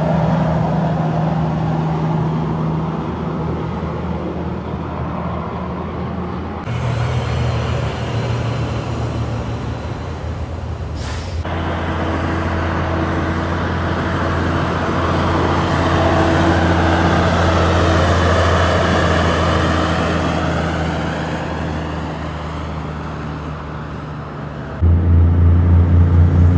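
Heavy trucks' diesel engines running as the trucks drive past, in several short clips that cut abruptly from one to the next, with a brief hiss about eleven seconds in.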